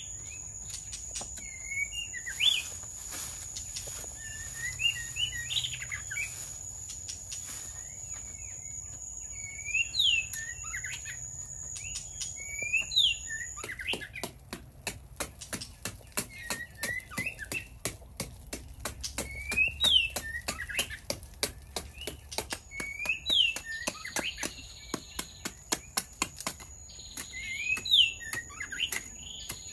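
A songbird repeating a short whistled phrase every few seconds, with rapid sharp knocks of a hand tool chipping into a clay bank, about three a second through the second half.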